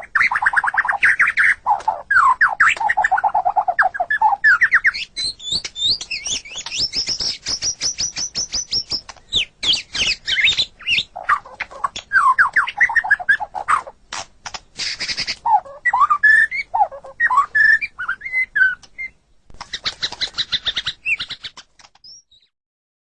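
White-rumped shama (murai batu) singing a long, varied song of whistled phrases, fast trills and rapid chattering notes, which stops about a second before the end.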